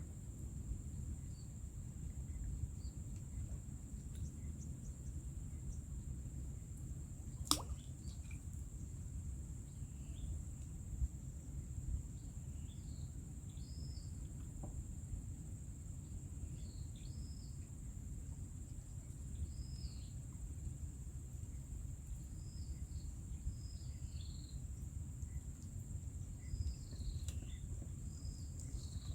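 Quiet outdoor ambience: birds giving short, scattered chirps over a steady low rumble and a steady high-pitched hum, with one sharp click about seven seconds in.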